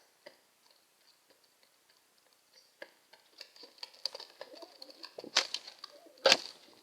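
Pigeon cooing, with scattered light clicks and taps, and two loud sharp slaps near the end.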